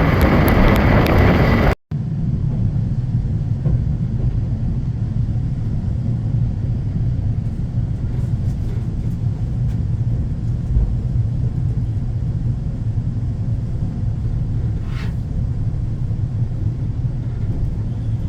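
A loud rushing noise cuts off about two seconds in. After it comes the steady low rumble of a moving passenger train running along the track.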